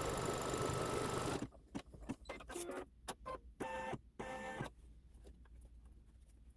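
Embroidery machine stitching, then stopping about a second and a half in. Scattered clicks and two short pitched tones follow as the machine finishes its pass.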